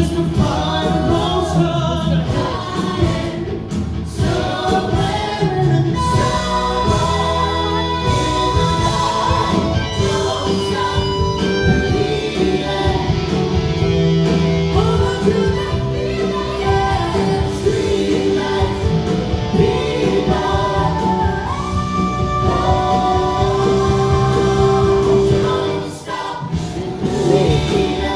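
Live music: several voices singing together in harmony over a band, with long held notes. There is a brief dip in the music a couple of seconds before the end.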